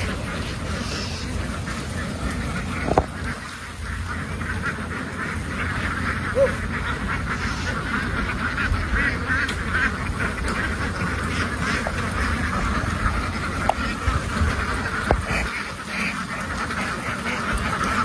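A large flock of domestic ducks quacking all together in a dense, unbroken chatter.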